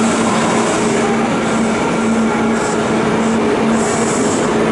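Steady drone of an electric limited express train standing at the platform, its onboard equipment humming at a constant pitch. A few short high hisses come in the second half.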